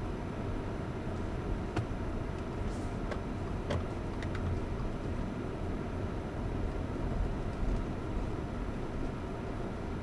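Fifth-generation Subaru Forester driving slowly on a rough off-road track: a steady low rumble of engine and tyres, with a few short sharp knocks in the first half.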